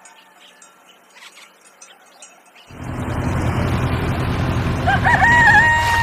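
A tractor engine runs steadily with a low, even chugging, starting suddenly about halfway through. Near the end a rooster crows over it: the call wavers, then holds one long note. Before the engine starts there is only faint background sound.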